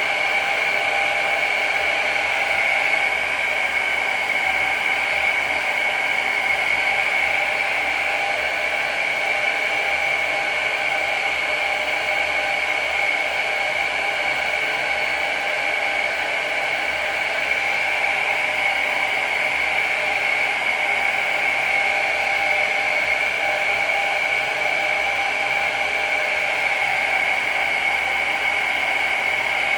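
Handheld hair dryer running steadily, its motor and fan giving a high whine over the rush of air.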